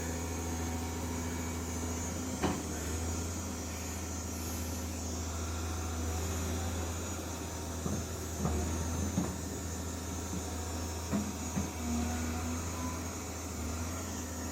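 Caterpillar 320D hydraulic excavator's diesel engine running steadily, with a few short knocks as it works.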